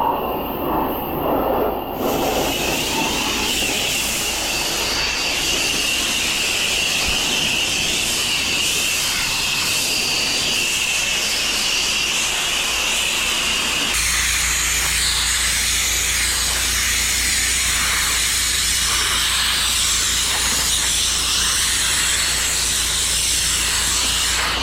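Pressure washer running and spraying, a loud steady hiss of the high-pressure water jet. About halfway through the sound changes abruptly to a steady low hum under a broader hiss.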